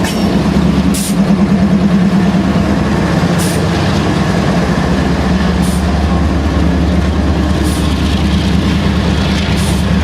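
Freight train rolling past with a steady low rumble, a short sharp high click coming about every two seconds.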